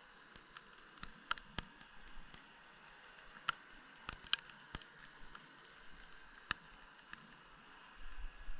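Underwater recording from deep lake water: scattered sharp clicks and ticks at irregular intervals, about one or two a second, over a faint steady hiss.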